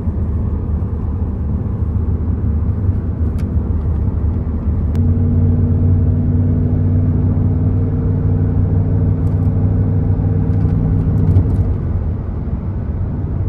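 A car on the move: a steady low engine and road rumble, with the engine's hum growing stronger about five seconds in and easing off again near the end.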